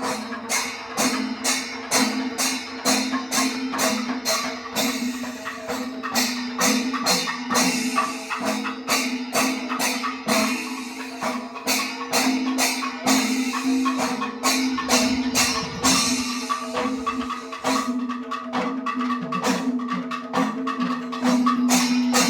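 Percussion music: fast, even drum and cymbal strikes, about three or four a second, over a steady held tone, with a brief pause in the strikes past the middle.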